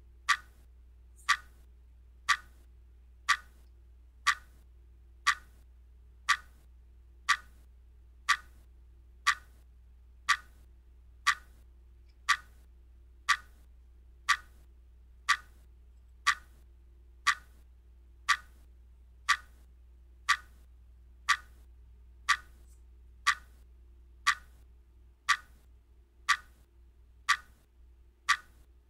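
A clock ticking steadily, one sharp tick each second, keeping time with the countdown timer, over a faint low hum.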